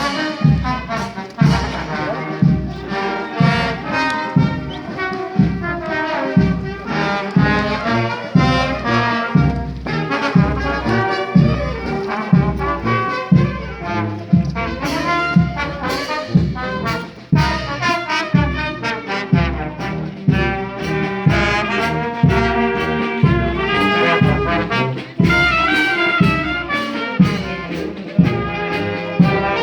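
Brass band playing a tune over a steady bass drum beat.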